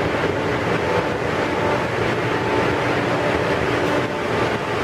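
Bombardier Acela Express electric trainset standing at the platform, its onboard equipment humming steadily: an even noise with a couple of held tones.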